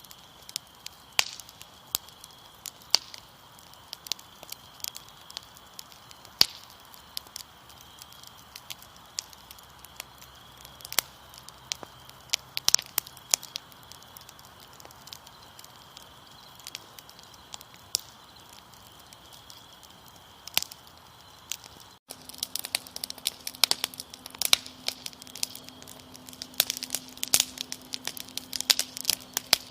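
Wood fire crackling with scattered sharp pops over a steady high chirring of crickets. About 22 seconds in the sound cuts abruptly to denser, louder crackling with a low steady hum.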